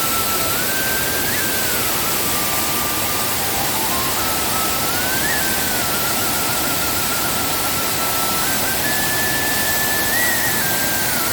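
Mae Kampong waterfall in rainy-season flood: a loud, steady rush of falling water. Over it runs a thin, high melody of slow held notes, with a short trill in the middle.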